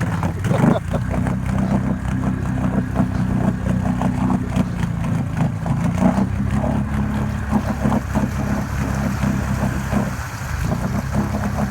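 Can-Am off-road vehicle engine running at a steady pitch, with scattered knocks and clatter. The engine note drops briefly about ten seconds in, then picks up again.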